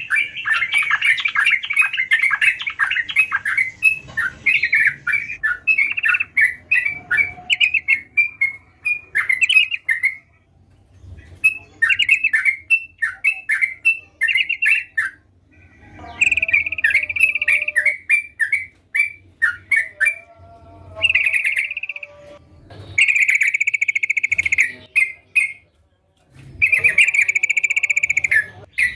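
Yellow-vented bulbul (trucukan) singing: rapid runs of quick chattering notes in phrases broken by short pauses, with a few longer held notes in the second half.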